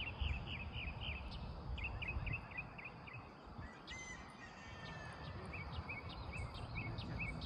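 Birds chirping in runs of short, quick notes, over a low uneven rumble of wind on the microphone.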